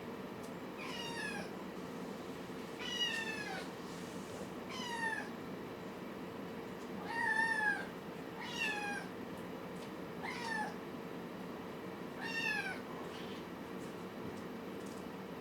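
A kitten meowing: seven short, high-pitched meows, each falling in pitch, about every two seconds.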